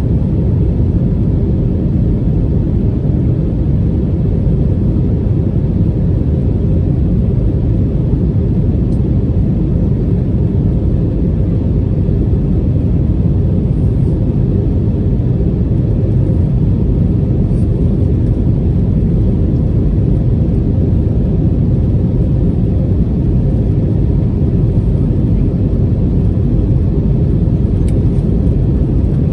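Steady low rumble of an Airbus A320neo's engines and airflow heard inside the passenger cabin, even and unchanging throughout.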